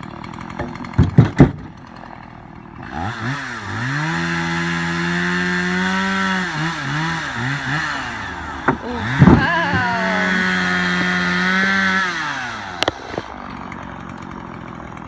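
Two-stroke chainsaw idling, then revved up to full throttle and held twice, dropping back to idle in between and at the end. A few sharp knocks sound about a second in and again just before the second rev.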